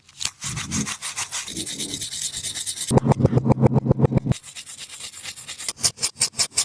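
A taba squishy, a tape-wrapped squishy toy, rubbed and scratched by hand in quick strokes. There is a fast run of about ten strokes a second about three seconds in, then a string of sharper ticks near the end.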